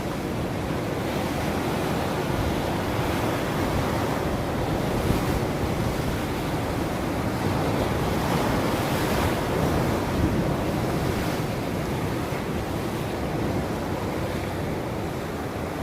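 Ocean surf: waves breaking and washing ashore in a continuous rushing noise that swells and eases a few times.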